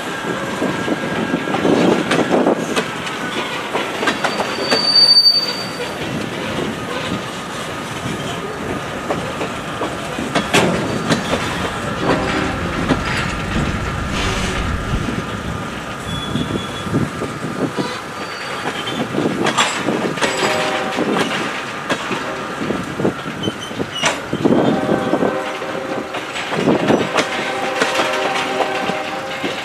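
Freight cars of a train rolling through a grade crossing, wheels clicking over the rail joints. Steady steel-wheel squeal comes and goes, strongest in the second half.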